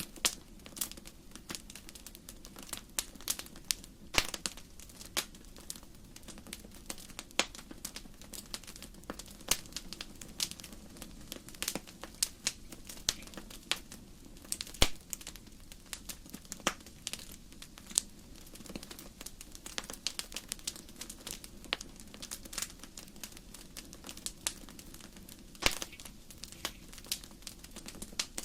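Wood fire in a fireplace crackling: irregular sharp pops and snaps of burning logs, several a second, over a low steady rumble of the flames.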